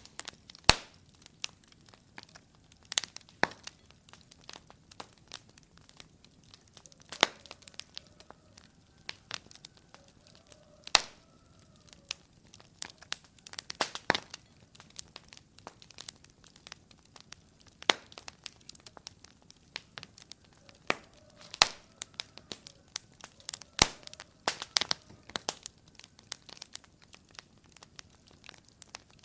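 Wood fire crackling in a fireplace: irregular small pops and snaps over a faint steady hiss, with a sharper louder crack every few seconds.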